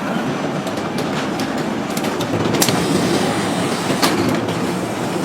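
Computerized sock-knitting machines running, a steady dense mechanical clatter with a few sharp clicks.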